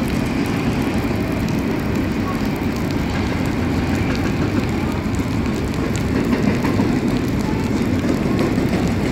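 Double-stack container train's cars rolling past: a steady low noise of steel wheels on rails, with faint light ticks over it.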